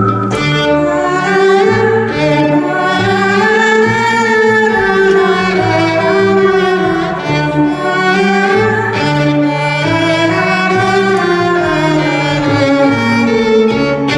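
Instrumental break of a live song: a bowed violin melody with slides between held notes, over a bass line stepping from note to note.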